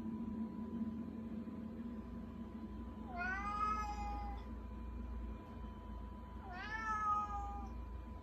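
Domestic cat meowing twice to beg, two drawn-out meows about three seconds apart.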